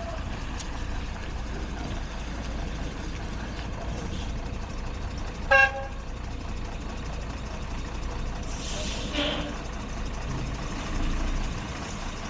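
Heavy truck engine running steadily, with one short horn toot about five and a half seconds in and a brief hiss a few seconds later.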